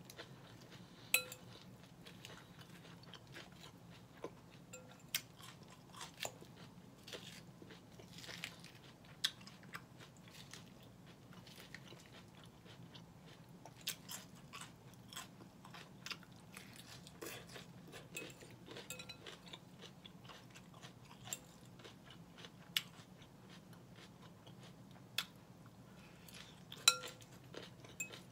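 Close-up chewing and crunching of salad lettuce, with the occasional sharp clink of a metal fork against a glass bowl, a couple of them louder, about a second in and near the end.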